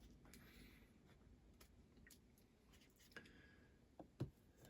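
Near silence with a few faint, sharp clicks and taps, the loudest two close together near the end.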